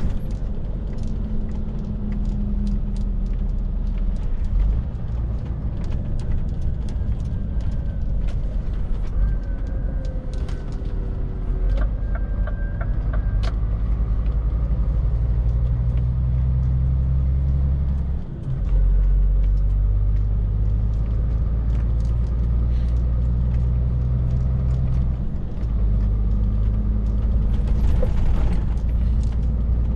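Scania R450 lorry's diesel engine running steadily under way, with road noise, heard from the cab. The level drops briefly about 18 seconds in and again, less, near 25 seconds.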